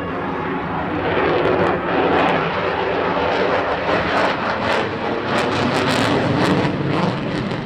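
Lockheed Martin F-22A Raptor's twin Pratt & Whitney F119 turbofans at high power: a loud, rough jet roar that swells about a second in, with sharp crackling running through most of it.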